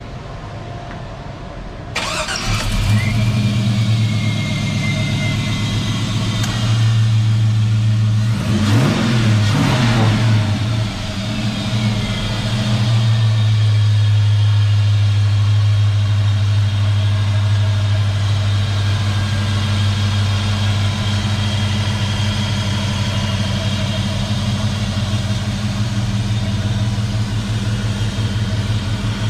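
A car engine starts about two seconds in, revs up and back down briefly, then settles into a steady idle.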